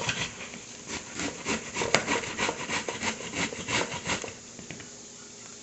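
Cabbage being sliced with quick, rhythmic cutting strokes, about three or four a second. The strokes stop a little after four seconds in.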